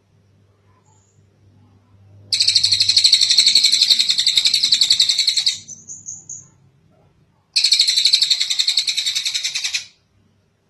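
Tengek cililin bird singing two long, fast-pulsed high trills. The first lasts about three seconds and ends in a few short notes; the second starts about two seconds later and lasts a little over two seconds.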